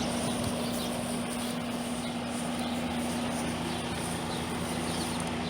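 Trane air-conditioner condenser unit running on its fan alone, a steady hum and whir, with the compressor not running. The cause is a failed capacitor.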